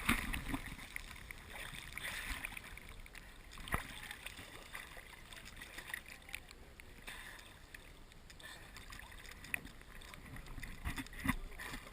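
Quiet sea ambience around a boat: a faint steady wash of water, with a few brief knocks and small splashes.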